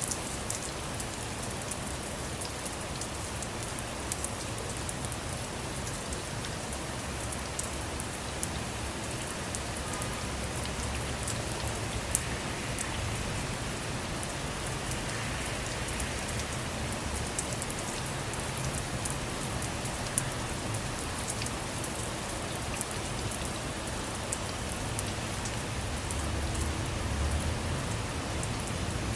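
Steady rain falling on a car, many sharp drop taps over an even hiss. A low rumble swells near the end.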